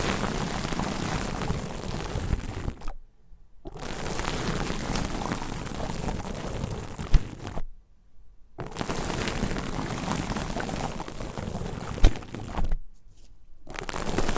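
Rain stick tipped over again and again, its beads pouring through in dense, fine rattling runs of three to four seconds each, broken by short silences, with a single sharp click about seven seconds in and another near the end.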